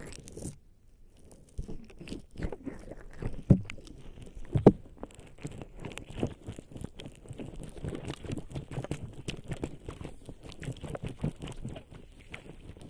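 Fingers scratching and rubbing bare skin slick with lubricating jelly: a dense run of irregular, crackly wet clicks, with a few louder snaps in the first five seconds.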